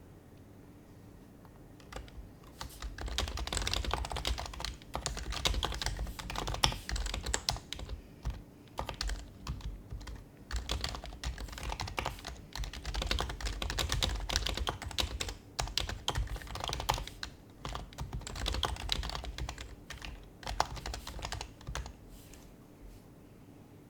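Typing on an HHKB Professional HYBRID Type-S keyboard with its silenced Topre switches: quick runs of muted key clacks broken by brief pauses, starting about two seconds in and stopping shortly before the end.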